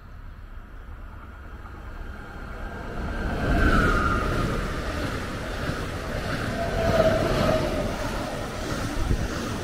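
Stadler FLIRT electric multiple unit (DB class 429) approaching and running close past along the platform. Its rumble of wheels on rails swells over the first few seconds and is loud from about three and a half seconds in. A brief high whine comes as it reaches the camera, and a lower one about seven seconds in.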